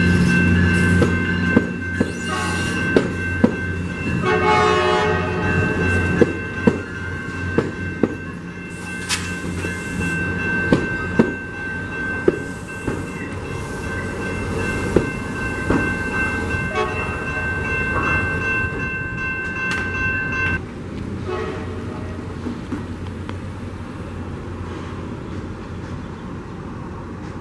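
Amtrak California passenger train passing, its wheels clicking irregularly over rail joints and a locomotive engine running low. A horn sounds briefly about four seconds in, and a steady high-pitched ringing tone cuts off suddenly about twenty seconds in.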